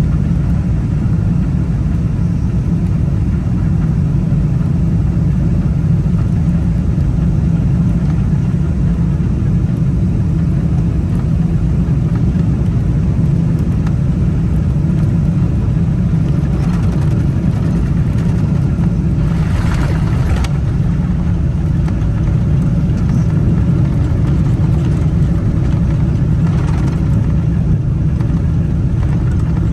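Boeing 777-300ER cabin noise during final approach into landing: a loud, steady low rumble of the engines and airflow, with a few brief swells of rushing noise about 17, 20 and 26 seconds in.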